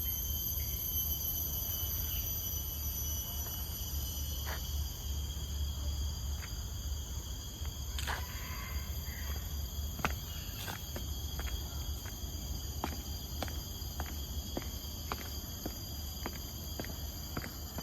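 Forest insects, crickets and similar, keep up a steady high chorus at several fixed pitches. Walking footsteps tap along at about two a second from about halfway through.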